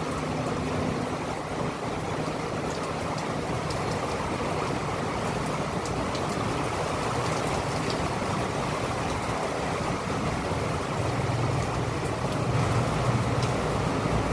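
Steady rain falling, with scattered drops ticking, over a low rumble that swells about three-quarters of the way through.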